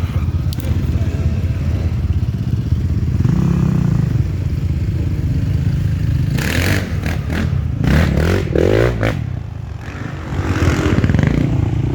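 Enduro motorcycle engine running and revving, with some clattering; the engine note rises and falls from about six to nine seconds in.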